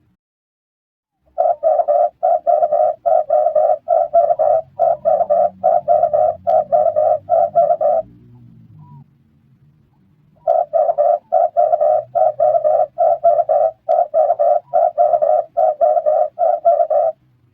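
Red turtle dove cooing in two long runs of quick, evenly repeated low notes, nearly three a second, each run lasting six to seven seconds with a pause of about two seconds between them.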